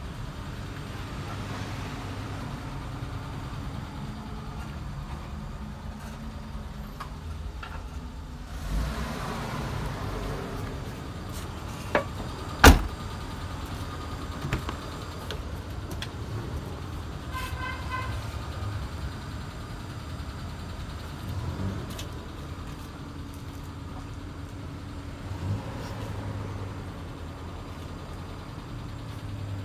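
Toyota Kijang Super's engine idling steadily. About twelve seconds in there are two sharp knocks, the second the loudest, like a car door being opened and shut, and a few seconds later a short run of beeps.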